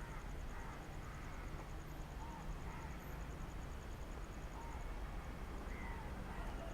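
Quiet outdoor ambience with a steady low rumble and birds giving short, scattered chirping calls, along with a fast, even high ticking that stops about five seconds in.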